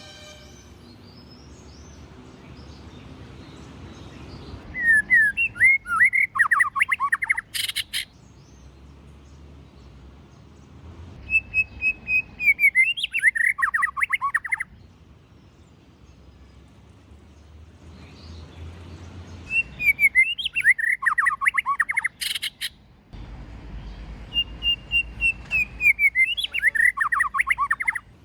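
White-rumped shama singing in four phrases a few seconds apart, each a quick run of varied chirping notes; two phrases open with a held whistle that slides down into the chatter. Two sharp clicks come at the end of the first and third phrases.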